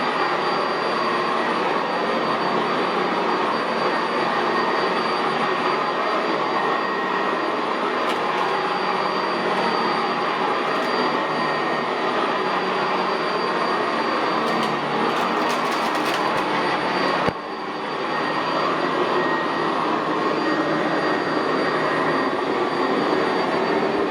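Commercial upright vacuum cleaner, a Sanitaire SC679J, running steadily over carpet with a motor whine, a few light ticks of picked-up grit, and a short dip in level about two-thirds of the way through.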